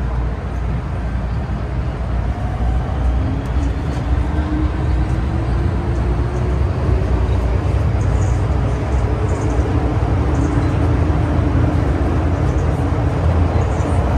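MTR M-Train electric multiple unit running in a tunnel, heard from inside the car: a steady low rumble from the wheels and track, with a faint traction-motor whine slowly shifting in pitch as the train gets louder.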